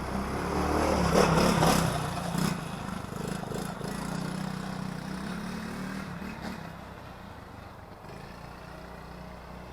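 TaoTao 110 ATV's small single-cylinder four-stroke engine running, loudest and revving a little in the first two seconds or so, then steady and fading lower.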